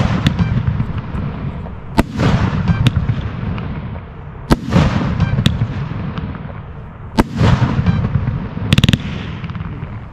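1.3G display fireworks bursting overhead: six or so sharp bangs a second or two apart, each trailing a rolling, fading rumble and crackle. A quick run of cracks comes near the end.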